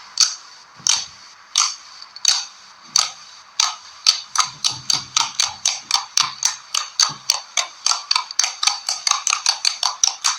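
Slime being squeezed and worked, popping and clicking in a series of sharp snaps that start about one every half-second to second and speed up to four or five a second.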